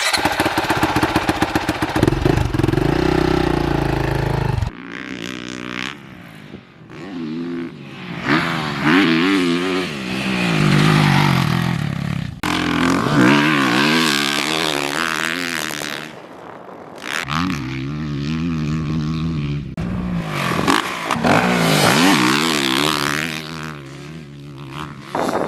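Honda CRF450R four-stroke 450 motocross bike engine revving hard and rising and falling in pitch repeatedly through gear changes and throttle chops. The sound jumps abruptly several times.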